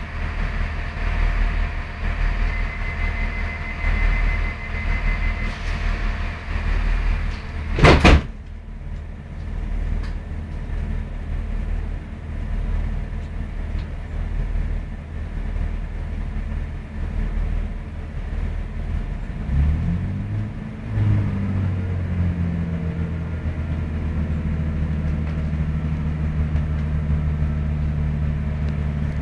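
Low rumble inside a moving diesel passenger train, with one loud knock about eight seconds in. About twenty seconds in, the engine note climbs in pitch and then settles into a steady drone.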